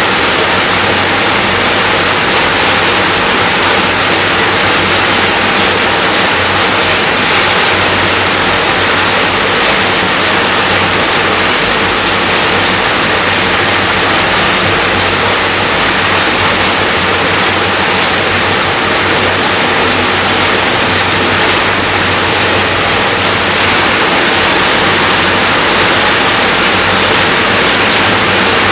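Rain falling steadily, a constant even hiss of water with no single drops or pauses standing out.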